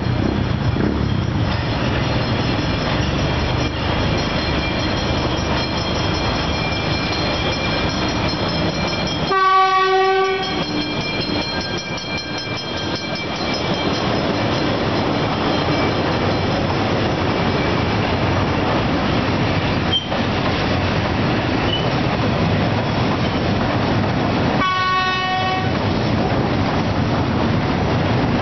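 A diesel freight train passes close by: the locomotive runs past, then a long string of hopper cars rolls by with steady wheel and car noise. The locomotive's horn sounds twice, about a second each time, roughly ten seconds in and again near the end.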